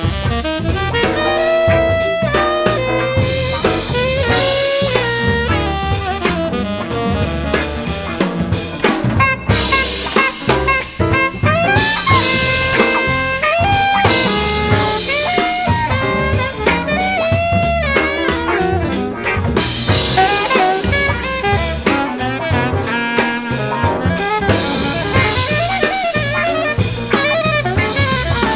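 Jazz band music: a drum kit keeps a busy beat under saxophone and brass playing a moving melody.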